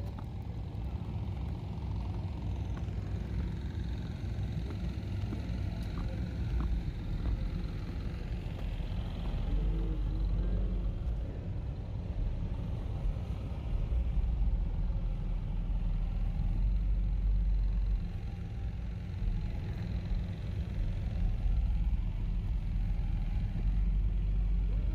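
Low, steady rumble of vehicle engines idling, with faint voices in the background.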